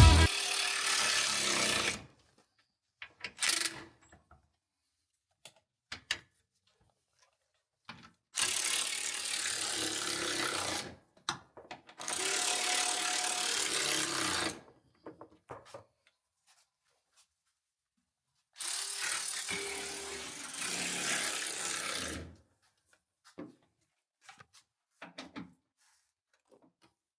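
A power tool, most likely a cordless ratchet, runs in four bursts of about two to three and a half seconds each, with small clicks and clatter between them. It is running bolts out of the old cooling fan.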